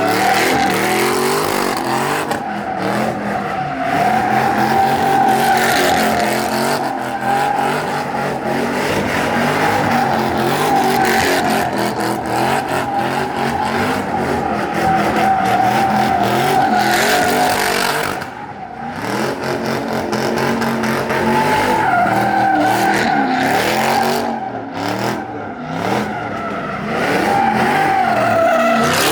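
Car tires squealing almost without a break as cars do burnouts and donuts, with engines running hard underneath. The squeal wavers in pitch and drops out briefly about two-thirds through and again a little later.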